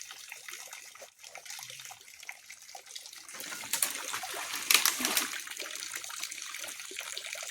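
Pond water splashing and trickling, with louder splashes at about four and five seconds in.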